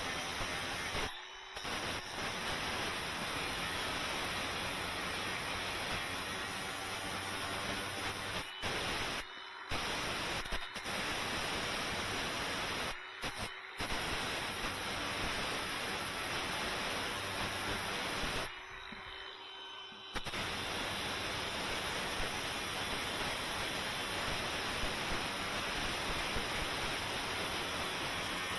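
Steady hissing noise from a shop tool, running in long runs that stop briefly and start again several times, with a longer stop about two-thirds of the way through.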